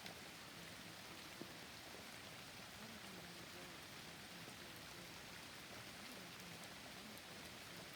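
Steady forest rain, a faint even hiss of falling drops, with one sharp drip tick about a second and a half in.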